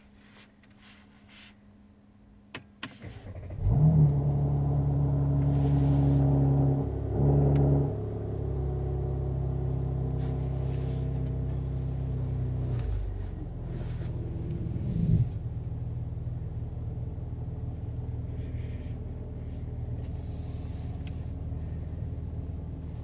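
Mercedes-AMG C43's engine cold-started with the exhaust flaps open: a few clicks, then it catches about three and a half seconds in with a loud flare. It holds a raised cold-start idle, steps down twice and gives one short blip, then settles into a steady idle.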